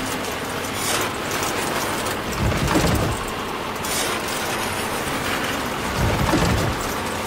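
Homemade miniature soil crusher running, its motor-driven toothed rollers grinding clods of soil with a steady gritty rattle and crunch. A heavier low rumble comes twice.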